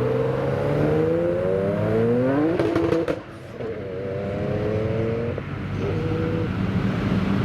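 A car engine accelerating hard, its pitch climbing for about three seconds. It cuts off abruptly with a few sharp crackles at a gear change, then climbs again in the next gear before levelling off.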